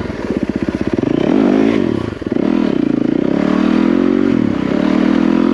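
Yamaha WR450F dirt bike's single-cylinder four-stroke engine running under riding load, its revs rising and falling with the throttle. It dips briefly about two seconds in, then climbs and holds fairly steady near the end.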